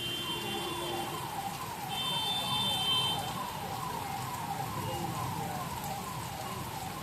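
Electronic siren repeating a falling tone about twice a second, with a vehicle horn sounding from about two to three seconds in, over the hiss of heavy rain.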